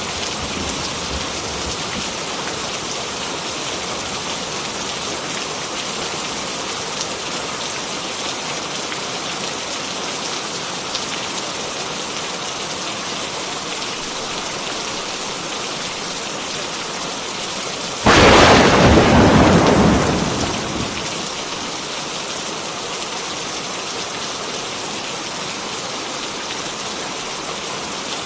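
Heavy rain falling steadily. About two-thirds of the way through, a sudden loud clap of thunder breaks in, rumbles for a few seconds and fades back under the rain.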